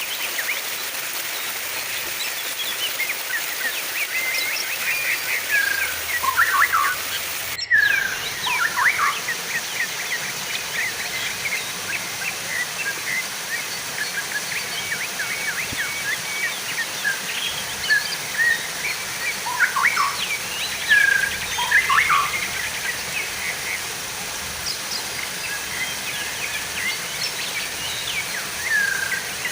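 Small birds chirping and twittering in short, scattered calls over a steady hiss of running water.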